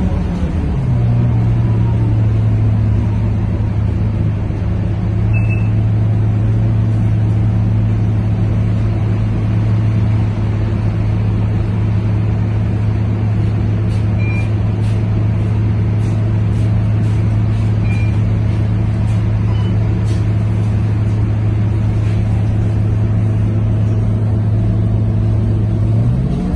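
Scania K230UB city bus's diesel engine and driveline running at a steady, unchanging note, a strong low hum that holds for over twenty seconds. The note shifts just before the end, with a few faint short high chirps in between.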